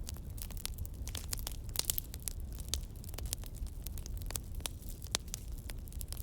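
Campfire crackling: a steady run of irregular sharp pops and snaps over a low, even rumble.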